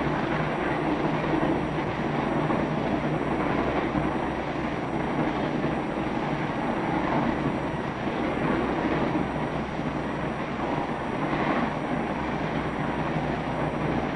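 Steam train running along the track: a steady rumble and rattle of the moving train.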